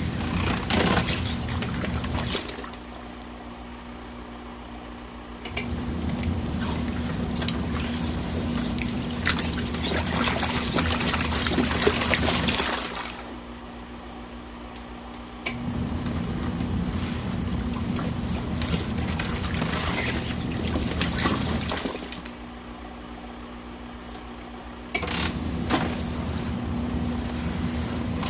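Compact twin-tub washing machine's wash tub agitating jackets in water, the load sloshing and churning. It runs for about six or seven seconds, pauses for about three with only a low hum left, then starts again; it does this three times, the stop-and-go of the agitator reversing direction.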